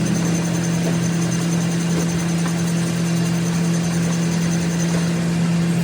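A motor or engine running steadily with an even, unchanging hum.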